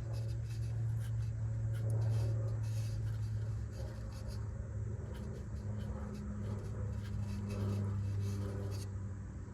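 Short, irregular scratchy scrubbing strokes as the rusty ABS wheel-speed sensor hole in the hub is cleaned out, over a steady low hum. The scrubbing stops shortly before the end.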